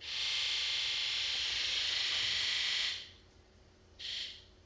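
Ford 7.3L Powerstroke fuel injectors buzzing during the scan-tool injector electrical test. A steady buzz from all injectors lasts about three seconds and stops, then a short single buzz comes near the end as the test moves to one injector at a time. Number one sounds better and no longer like the weak link.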